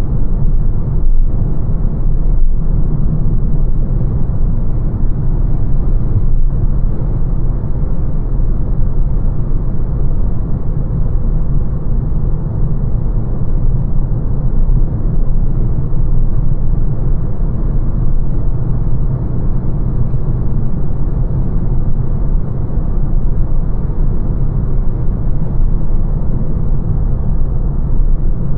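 Steady road and tyre rumble of a 2025 Lancia Ypsilon driving at a constant pace, heard inside the cabin.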